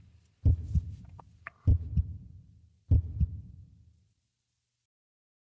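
Heartbeat sound effect: three deep lub-dub double beats about a second apart, each with a short rumbling tail, stopping about four seconds in.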